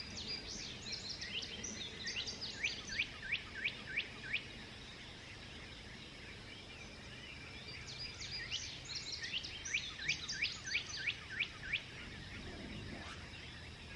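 A songbird singing two phrases several seconds apart. Each is a quick jumble of high notes ending in a run of about five loud, evenly spaced down-slurred whistles, over a steady low background rumble.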